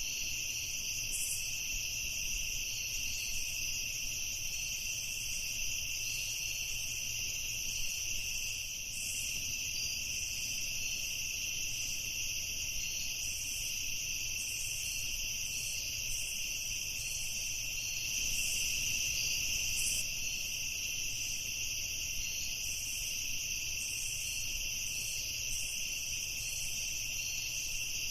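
Night insect chorus, crickets chirring steadily in several overlapping bands, with short higher chirps scattered through it.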